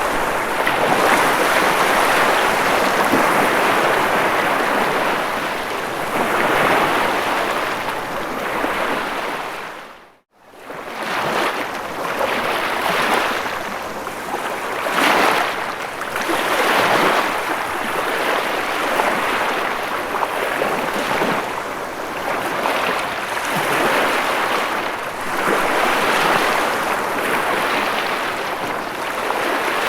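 Ocean waves washing in, a steady surf hiss that swells and ebbs every few seconds. About ten seconds in it fades out to silence for a moment and swells back.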